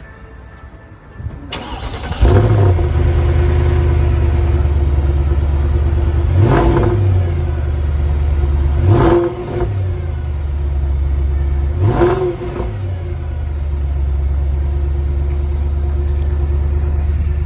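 Mercedes-Benz S63 AMG's 6.2-litre V8 cold-starting: it cranks briefly and catches about two seconds in, then settles into a fast cold idle. Three short throttle blips come about three seconds apart.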